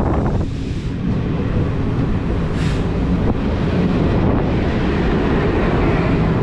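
Passenger train running along the track, a steady loud rumble from the moving coach, with wind blowing on the microphone.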